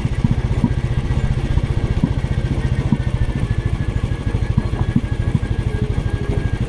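Motorcycle engine running steadily on the move, heard from on the bike, a fast even run of low firing pulses.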